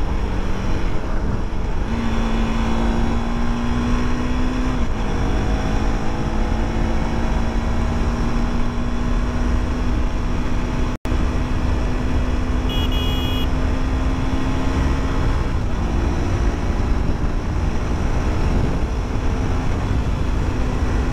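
A KTM 390 Duke's single-cylinder engine running at highway speed under steady throttle, its note slowly climbing, over heavy wind rush. The engine note dips once about five seconds in. A short high-pitched tone sounds a little past the middle, just after the sound cuts out for an instant.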